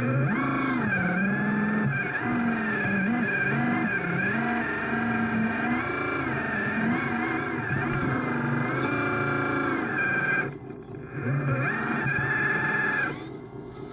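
Radio-controlled model construction machine running, its motor pitch rising and falling again and again under varying throttle, and dropping away briefly twice near the end.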